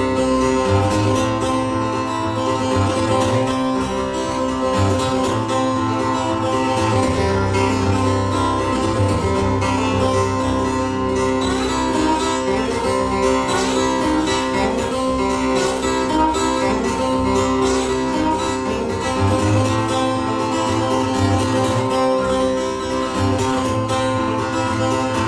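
Solo acoustic guitar played live: a plucked instrumental running continuously over a steady ringing drone note.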